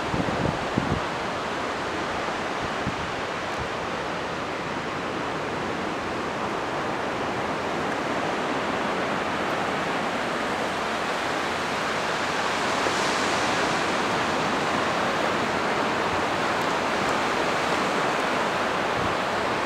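Steady rushing noise of ocean surf and wind at the beach, with a few low wind buffets on the microphone in the first second. The noise grows a little louder about two-thirds of the way through.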